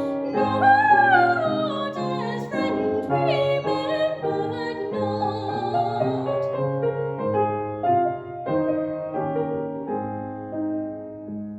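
Classical art song: a solo voice sings with vibrato over piano accompaniment, the voice ending about six seconds in. The piano then plays on alone, its closing notes fading near the end.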